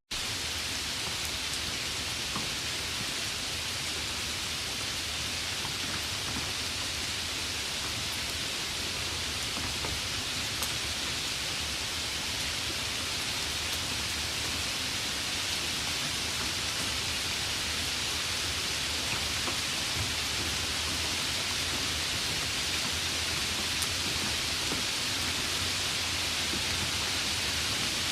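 Steady rain falling: an even hiss with a few faint drop ticks here and there.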